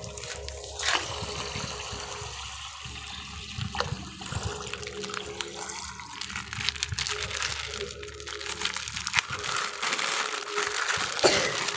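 Water running, trickling and splashing, with scattered small clicks, and a louder stretch near the end.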